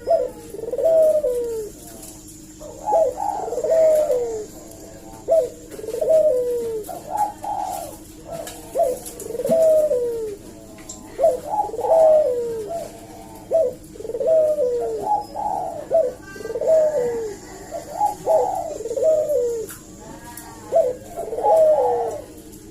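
A ringneck dove (burung puter) cooing over and over in a lively run, a short falling coo phrase about every one to two seconds. A faint steady hum runs underneath.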